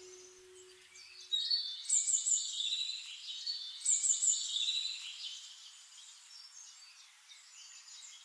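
Songbirds chirping and warbling in quick high notes, loudest for a few seconds starting about a second in, then carrying on more faintly.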